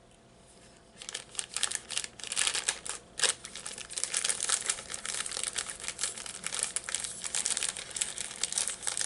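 Plastic snack wrapper crinkling and crackling as it is handled, starting about a second in and going on steadily.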